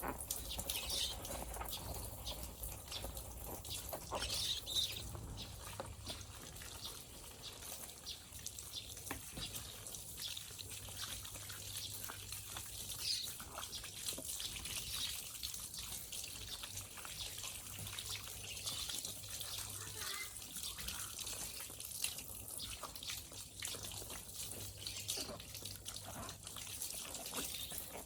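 Water trickling from a tap, with small splashes and scattered light clicks and rubs as a soft-vinyl Ultraman Leo figure is washed by hand.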